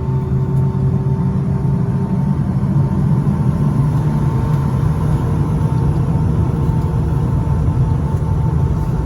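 Cabin noise inside a Boeing 757-200 with its engines running: a loud, steady low rumble with faint steady whining tones over it. One tone fades about two seconds in and a slightly higher one comes in about halfway through.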